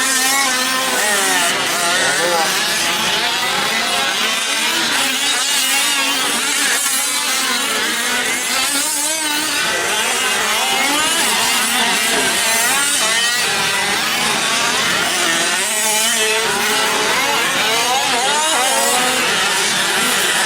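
Several 5th-scale RC trucks' small two-stroke gas engines racing at once, each revving up and down so their overlapping pitches keep rising and falling.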